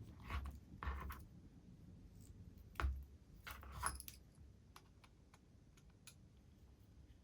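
Small metal parts of a model locomotive being handled and fitted with hand tools: a few light clicks and scrapes in the first four seconds, then only faint ticks.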